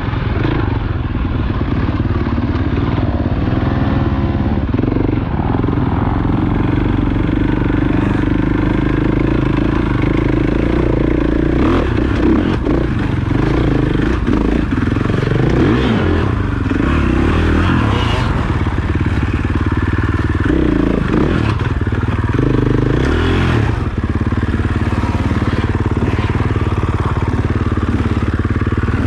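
Trail motorcycle's engine running continuously, its pitch rising and falling as the throttle opens and closes.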